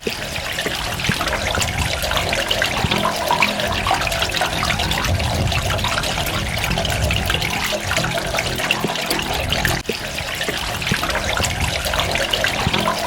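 Running water trickling and splashing steadily, with many small droplets pattering through it. About ten seconds in it cuts out for a moment.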